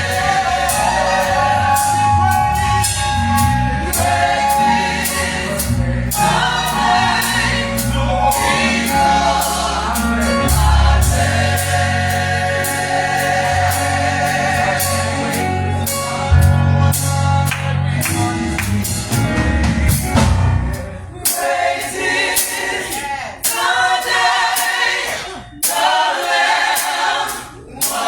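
Gospel choir singing with a band behind it, bass and drums keeping the beat. About 21 seconds in, the bass drops out and the voices carry on nearly alone.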